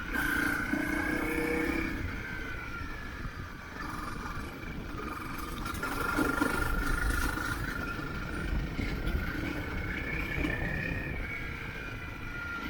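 Motorcycle engine running while riding, its pitch wavering up and down with the throttle, over a steady rumble of wind and road noise.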